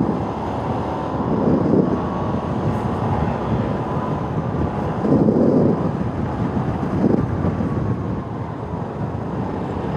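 Motorcycle riding noise: the engine running with road noise and wind on the microphone, swelling a few times.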